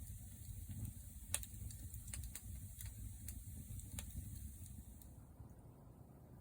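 Wood campfire burning with a low rumble and a handful of sharp crackling pops. A high hiss fades out near the end.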